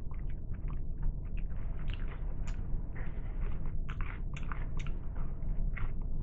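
Close-up chewing of a Subway sandwich, with irregular wet mouth clicks and smacks.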